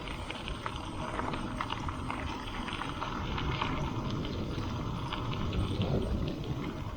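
Gravel bike tyres rolling over a dirt and gravel road: a steady low rumble with many small irregular crunches and ticks of grit and stones under the wheels.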